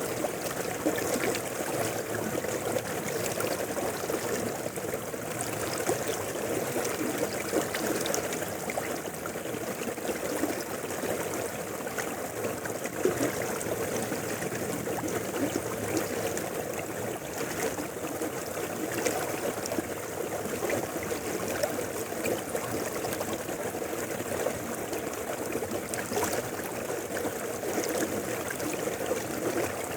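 Mountain river flowing steadily, an unbroken rush of water.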